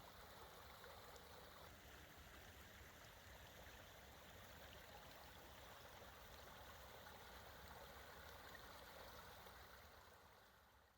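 Creek water flowing steadily, a faint even rush that fades out near the end.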